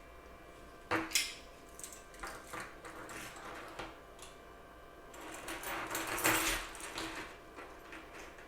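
Small plastic computer-mouse parts being handled and worked on: a sharp knock about a second in, then scattered clicks and a longer stretch of scratchy rubbing between about five and seven seconds in.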